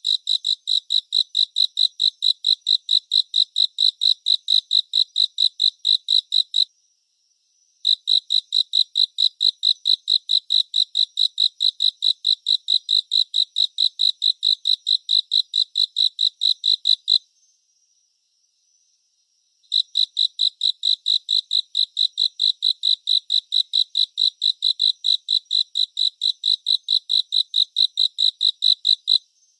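A cricket chirping in a steady, rapid pulse of about five chirps a second on one high, clear pitch. It sings in three long trains, falling silent for about a second after the first and about two seconds after the second.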